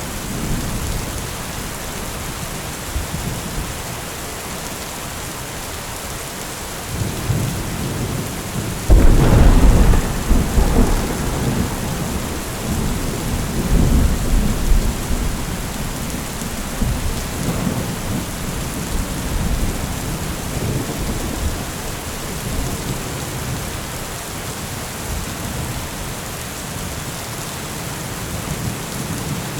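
Steady rain during a thunderstorm. A sudden loud thunderclap about nine seconds in rumbles on for several seconds, and weaker rolls of thunder follow.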